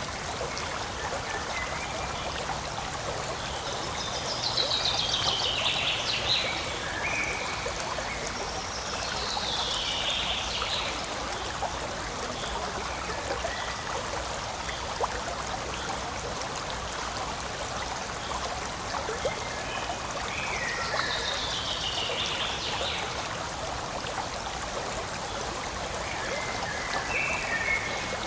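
Forest stream flowing and trickling steadily over stones. A few high, falling chirps cut through the water sound three times, with shorter chirps between them.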